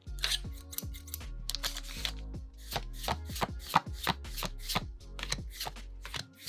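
Pokémon trading cards being slid and flicked against one another as a pack is flipped through, a quick run of crisp card snaps and rustles, over soft background music.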